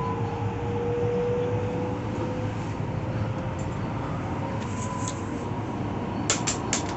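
Subway car running, heard from inside the car: a steady rolling noise with a faint motor whine that slowly rises in pitch. A few sharp clicks come near the end.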